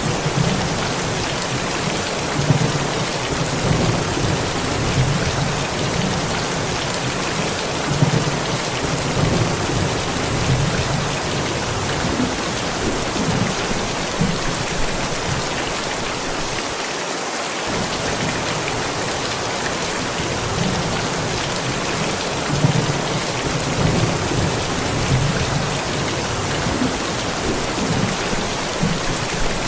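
Steady rain falling throughout, with low thunder rumbling on and off: heavier in the first third, fading in the middle and returning near the end.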